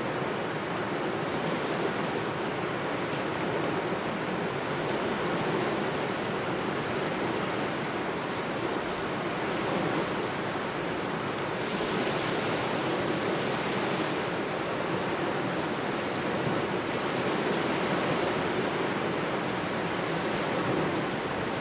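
Small waves washing steadily on the shore with cold wind blowing over them, an even rushing noise that swells a little now and then.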